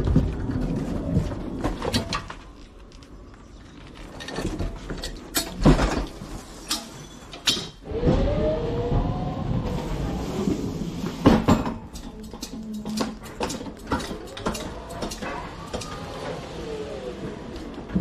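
Cargo being handled while a trailer is unloaded: repeated knocks and clatters, with a motor whine that rises and falls twice.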